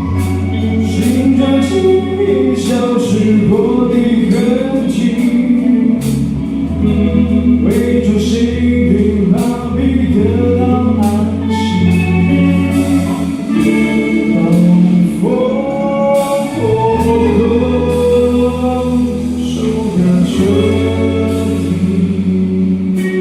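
Rock band playing a song: a sung vocal line over held bass notes, with regular drum and cymbal strikes.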